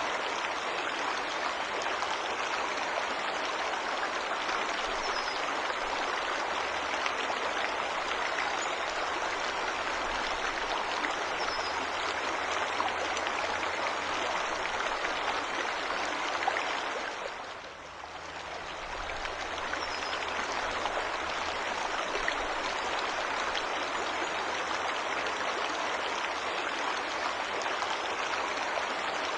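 Waterfall rushing steadily, a broad even wash of falling water, with a few faint high bird chirps now and then. Its level briefly dips and swells back about two-thirds of the way through.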